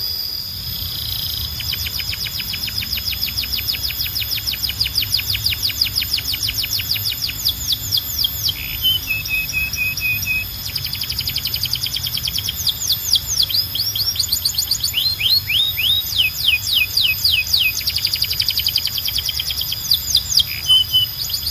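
Canary singing: fast trills of short repeated notes, switching to a new trill every few seconds, some high and sweeping, some lower and buzzier.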